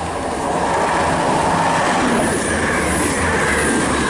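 Class 175 diesel multiple unit passing through the station without stopping: a loud rush of wheels on rail and engine noise. It builds over the first second, holds, and eases slightly near the end, with a faint high wheel squeal.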